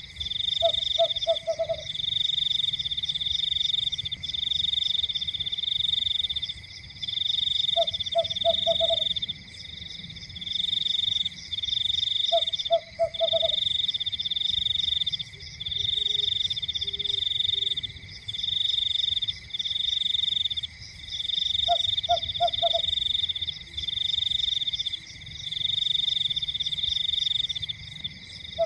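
Frogs calling: a loud high-pitched trill repeated in phrases of about a second with short breaks, and every four to nine seconds a lower call of four or five quick croaks.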